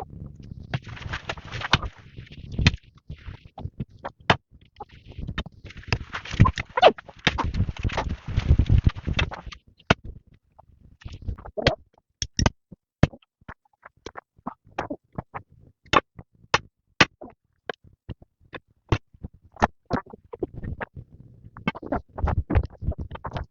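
Irregular sharp knocks and clicks, at times several a second, with two stretches of rustling noise in the first half.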